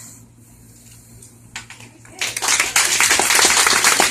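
A few scattered hand claps about one and a half seconds in, then an audience breaking into loud, steady applause.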